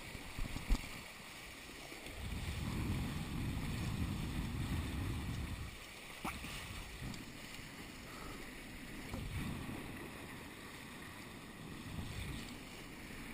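Wind buffeting the microphone and water rushing past the hulls of a Nacra 5.2 catamaran under sail. The low rumble swells in gusts, strongest from about two to six seconds in, with quieter rushing between.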